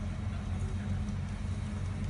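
Metro train running along the track at a distance: a steady low rumble.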